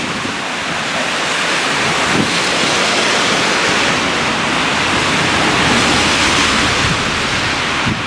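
Blizzard wind blowing across the microphone: a loud, steady rushing that swells a little, with a few low buffets from the gusts.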